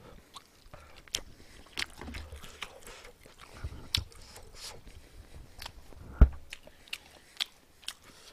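Close-miked chewing of a mouthful of chicken bulgogi: wet mouth clicks and smacks at irregular intervals. There is one louder thump about six seconds in.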